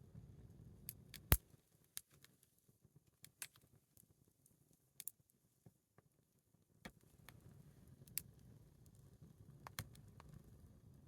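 Small wood fire crackling: irregular sharp pops and snaps, one louder pop about a second in, over a faint low rumble.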